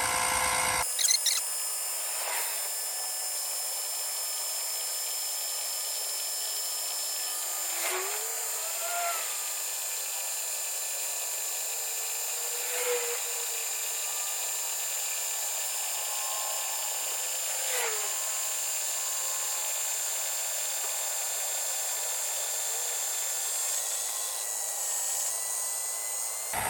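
Small 12-volt electric oil-extractor pump running steadily, whining as it sucks the old oil out of a generator's crankcase. A few faint knocks come through now and then.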